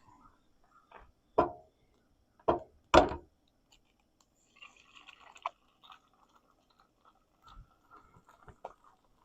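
Eggs being cracked on the edge of a pan of cooking hash: three sharp knocks in the first three seconds, then quieter small clicks and a faint hiss.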